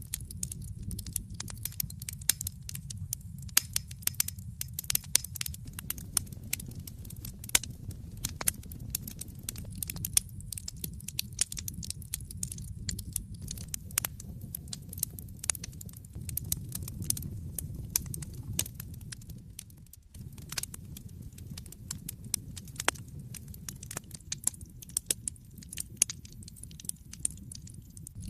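Wood fire burning in a fireplace: dense, irregular crackles and pops over a low, steady rumble of the flames, which dips briefly about twenty seconds in.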